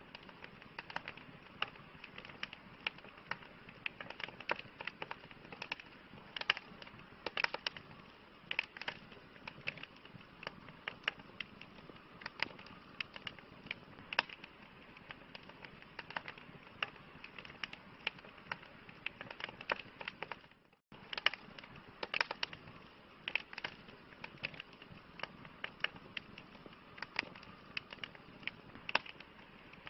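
Wood campfire crackling: frequent irregular sharp pops and snaps over a soft steady hiss. The sound cuts out for an instant about two-thirds of the way through.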